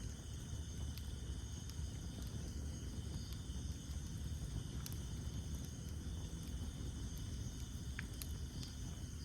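Wood campfire burning with a steady low rumble of flames and a few sharp crackles and pops now and then. Night insects chirr steadily in the background.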